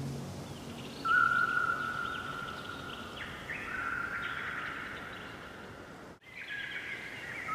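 Songbirds singing: a long steady whistled note about a second in, then a run of stepped and sliding high notes over faint background hiss. The sound cuts out briefly near the end.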